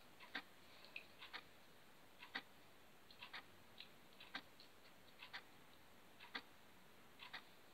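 Faint, irregular little clicks and pops of sticky slime being squeezed and poked in the hands, sometimes in quick pairs.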